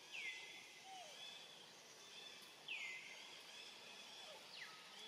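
Faint bird calls: two calls about two and a half seconds apart, each sliding down and then holding for about a second, with a couple of quick falling chirps near the end, over a steady faint outdoor background.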